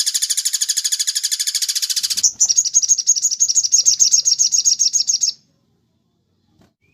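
Recorded bird calls: a fast high rattling trill that stops about two seconds in, followed by a series of sharp high notes, about seven a second, that cuts off suddenly a little past five seconds in.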